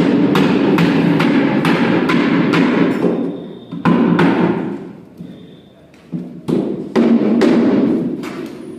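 Repeated knocks or thuds, about two or three a second, over a dense, noisy background. They break off around four and a half seconds in and start again about six seconds in.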